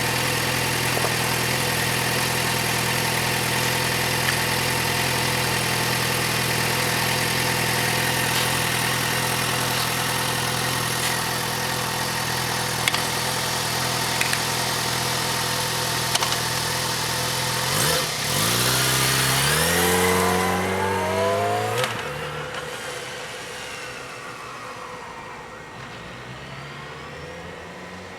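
Yamaha FZ6R's 600 cc inline-four running steadily at idle through its stock exhaust, then revving up in two rising pulls about eighteen seconds in as the bike rides off. After about twenty-two seconds the engine sound drops away and fades into the distance.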